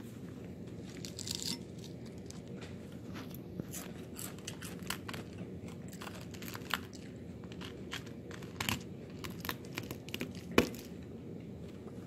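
Close-miked eating: a person chewing and biting food, with many short clicks scattered through, the sharpest a little before the end, over a steady low background noise.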